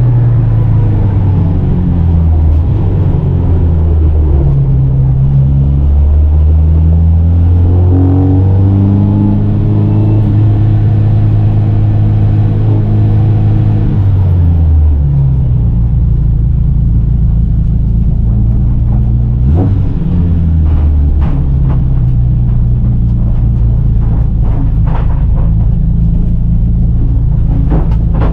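Volvo Amazon 121 race car's four-cylinder engine heard onboard, its pitch rising under throttle and dropping off several times as it pulls through the revs and is backed off. A few sharp clicks cut in about two-thirds of the way through.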